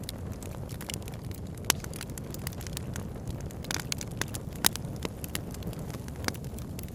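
Campfire crackling, burning wood giving off many small sharp pops and snaps, two louder ones about two seconds and nearly five seconds in, over the steady low rush of a river.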